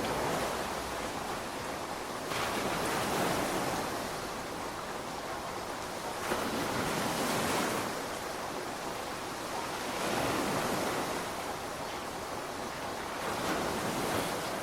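Steady rainfall, a dense even hiss that swells louder for a second or two about every four seconds, like gusts driving the rain.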